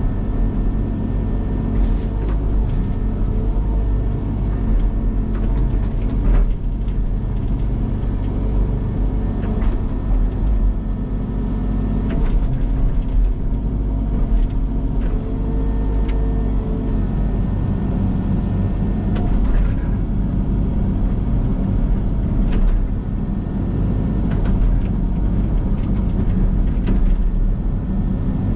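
Link-Belt excavator's diesel engine running steadily under working load, with scattered sharp knocks and clatter throughout.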